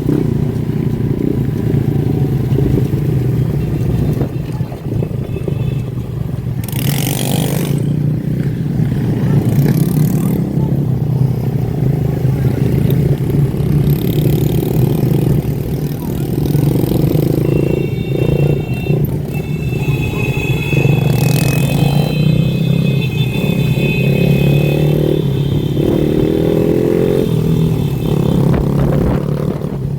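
Many motorcycle and dirt bike engines running and revving together in a group ride, a constant rumble. A high steady tone holds for several seconds past the middle.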